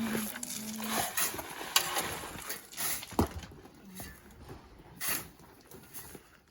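Manual shovel work in sand: irregular scrapes and a few sharp knocks, busiest in the first three seconds and thinning out after. A low steady hum sounds briefly in the first second.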